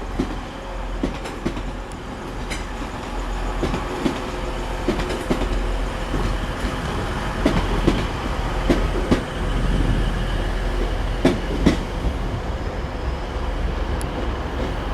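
Two coupled Class 185 diesel multiple units rolling into the platform, with a steady rumble and irregular wheel clicks over rail joints and points.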